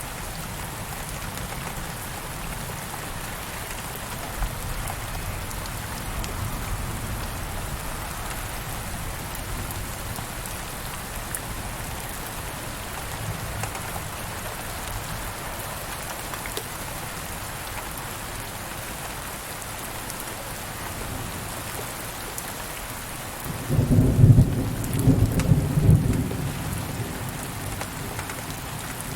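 Steady rain falling, with a loud low rumble of thunder near the end that lasts about three seconds.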